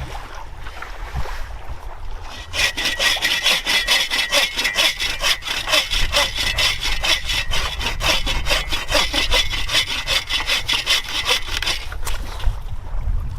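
Hand saw cutting through a wooden pole in a steady run of quick back-and-forth strokes, starting about two seconds in and stopping shortly before the end.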